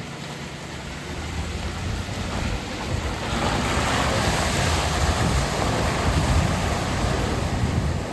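Four-wheel-drive truck driving through mud: engine rumble with tyres churning and splashing through muddy water, growing louder about three seconds in.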